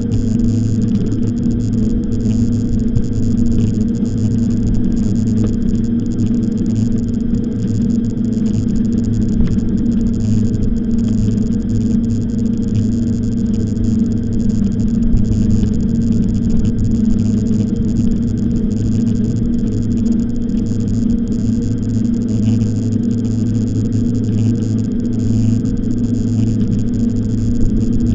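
Steady riding noise of an e-bike underway: a constant low hum with a rushing noise over it, unchanging throughout.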